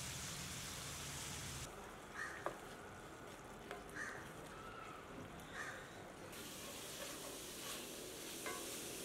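Mutton pieces sizzling in a pan with a steady hiss, then after about two seconds quieter thick curry cooking, with scattered short pops and clicks from bubbling gravy and a wooden spatula stirring in a cast-iron pan.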